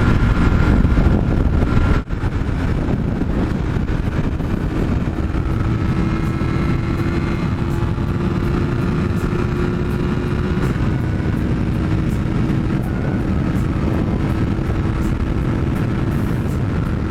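Yamaha MT-03's parallel-twin engine running steadily at highway speed, mixed with heavy wind rush, with a brief dip about two seconds in.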